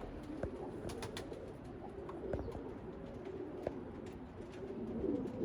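Domestic pigeons cooing, a continuous wavering murmur of several birds, with a few light taps and clicks scattered through it.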